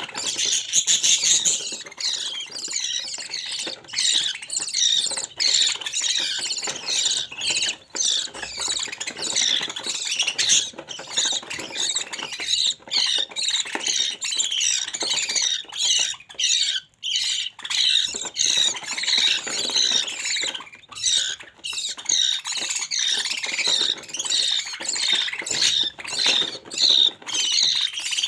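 Budgerigars squawking and chattering without a break, many short calls overlapping, with a brief lull about two-thirds of the way in.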